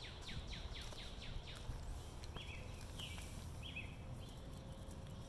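A songbird singing a quick run of about four falling whistled notes a second, which stops a little under halfway through; a few short chirps follow. Under it runs a faint low outdoor rumble.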